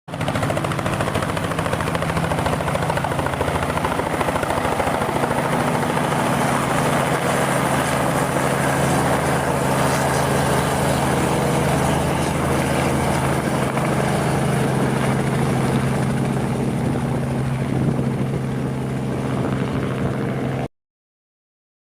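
Helicopter engine and rotor running in flight with a steady, even drone that cuts off suddenly near the end.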